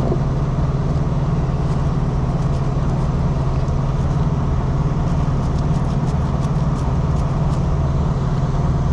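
A diesel engine idling steadily with a low, even hum.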